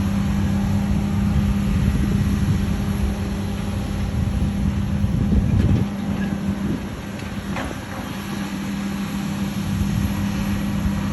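Claas Lexion 770 combine harvester running, a steady machine hum with one constant low tone over a broad rumble; it swells briefly about halfway and then drops a little in level.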